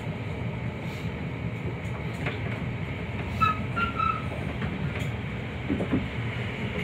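Interior running noise of a Class 323 electric multiple unit: a steady low rumble with a few clicks from the rails. A couple of brief high squeals come about three and a half seconds in.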